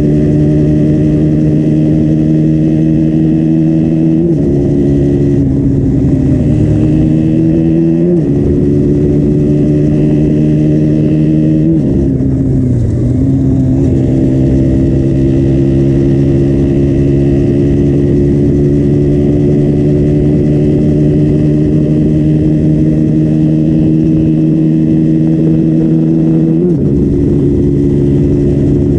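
2015 KTM Duke 125's single-cylinder four-stroke engine running through its stock exhaust, holding a nearly steady note that slowly rises. The pitch drops sharply about four seconds in, around twelve seconds in and again near the end, with a brief jump and fall around eight seconds in.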